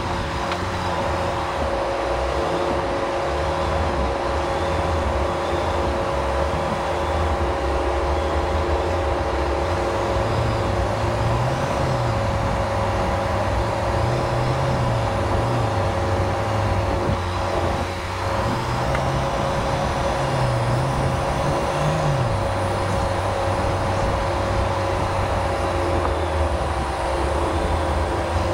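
Jeep Wrangler JL engine running at low speed, its pitch rising and falling with light throttle, under a steady whine.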